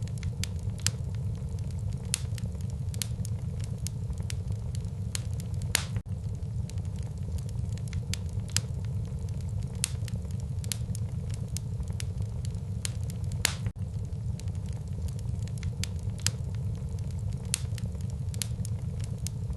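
Wood fire in a fireplace crackling, with irregular sharp pops several times a second over a steady low rumble of the flames; a few pops stand out louder.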